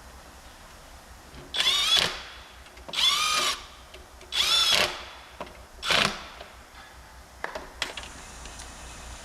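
Power drill run in four short bursts, each rising and falling in pitch as the motor spins up and slows, followed by a few light clicks.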